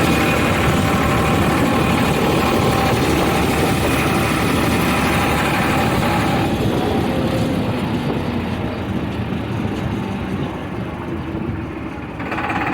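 Farmtrac tractor's diesel engine running steadily, its sound growing fainter and duller over the last few seconds.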